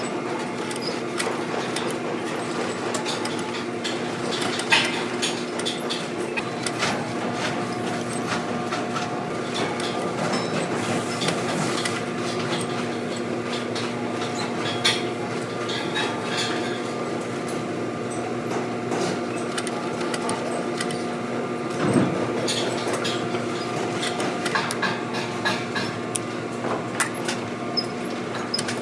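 A boot-shop machine's motor running steadily with a constant hum, with scattered sharp clicks and knocks from work at the machine.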